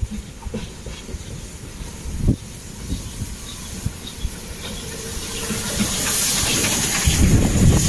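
Steam locomotive arriving: scattered knocks, then a hiss of steam that grows louder from about five seconds in, with a low rumble of the train joining near the end.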